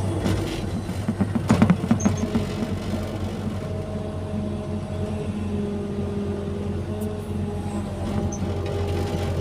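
Excavator's diesel engine running steadily under load, with hydraulic whine and a few clunks from the machine about one and a half to two seconds in.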